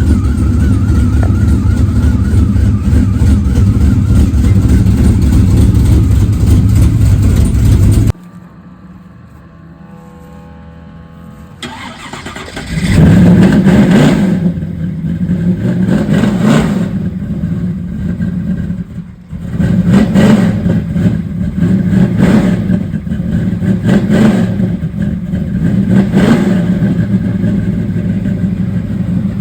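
A vehicle engine running loudly, then cutting off abruptly. After a quiet gap it starts up again and is revved in a series of short blips, about one every two seconds.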